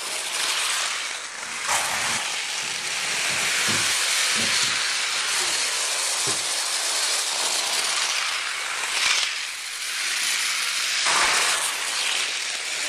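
Battery-powered toy train, upgraded to run on a 9-volt battery, running fast on plastic track: a steady hissing rattle that dips briefly twice.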